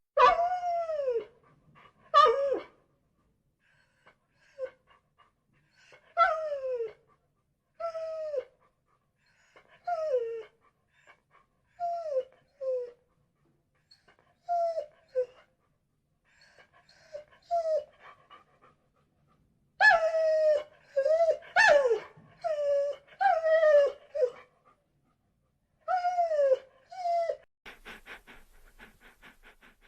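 A dog whining: a string of short, high, falling cries, about one every second or two and coming in quicker succession in the second half, with a run of faint clicks near the end.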